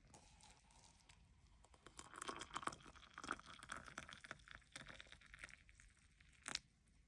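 Faint rustling and crinkling, like packaging being handled and torn, with a cluster of small clicks in the middle and one sharper click near the end.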